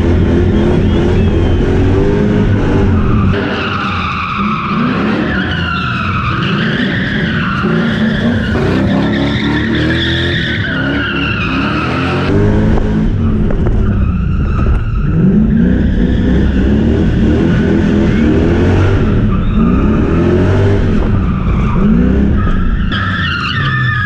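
Drift car engine revving up and down in repeated surges, with tyres squealing as the car slides; the squeal is strongest from a few seconds in until about halfway, and comes back near the end.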